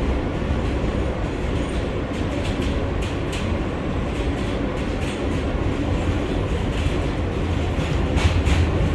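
R143 subway train running along the track between stations: a steady rumble with faint scattered clicks from the wheels on the rails.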